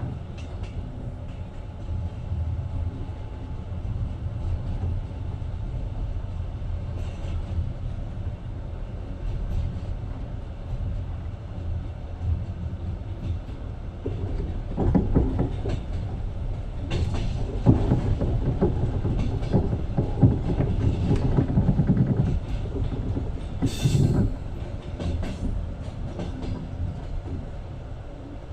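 Passenger train running, heard from inside the carriage: a steady low rumble with the wheels clattering over the rail joints, louder and busier through the second half.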